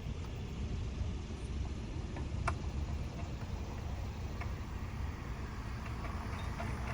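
A few faint metallic clicks as the arbor flange and nut are fitted back onto a table saw's arbor, over a steady low rumble.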